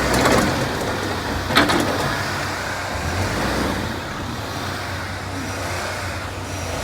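Truck engine running steadily off-road, with a sharp knock about a second and a half in and a few clicks just before it.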